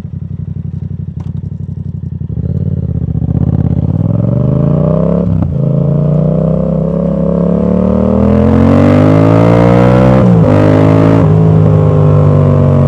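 Yamaha MT-07 parallel-twin motorcycle engine on an aftermarket exhaust with its dB killer fitted, pulling away from a low idle and accelerating hard. The note climbs, drops at a gear change about five seconds in, climbs again, drops at a second change about ten seconds in, then holds steady.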